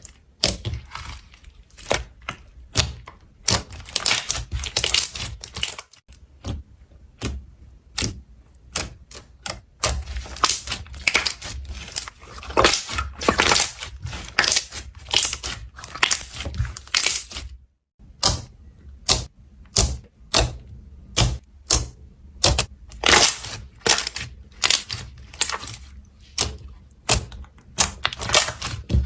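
Slime being squeezed and poked by hand, giving runs of rapid crisp clicks and crackles, with brief pauses twice.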